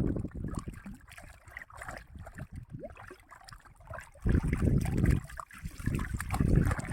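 Water splashing and sloshing as freshly cut bamboo tubes are washed, in uneven swells, the loudest about four seconds in and again near the end.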